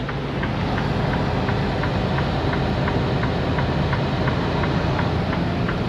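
Steady diesel engine and road noise inside a semi truck's cab, with a light regular ticking about three times a second.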